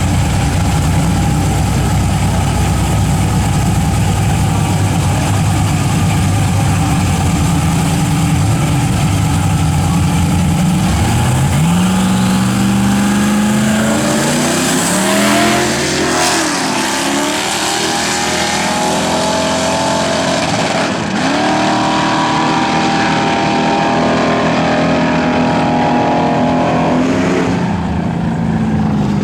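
Twin-turbo Chevy pickup engine: a low rumble for the first ten seconds or so, then the engine pitch climbs. It dips and recovers around the middle, climbs again about two-thirds of the way in, holds high, and falls away near the end.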